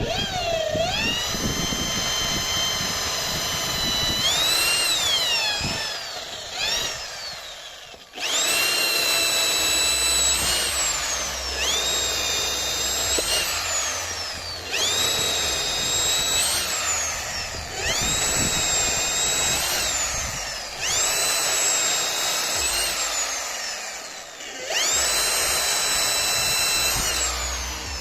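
INGCO ID11008 1100 W electric impact drill run in short bursts, about seven times: each time the motor whine rises quickly, holds steady for two or three seconds, then falls away as the chuck winds down.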